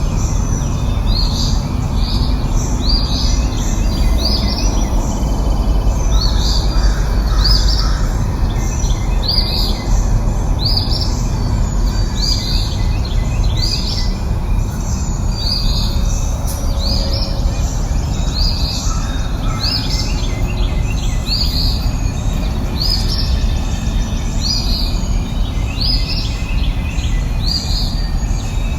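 A songbird giving short, high chirps over and over, about once a second, over a steady, low rushing background noise.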